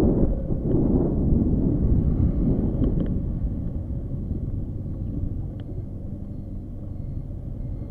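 Motorcycle engine running with a low rumble and wind noise on the microphone, fading steadily until near the end.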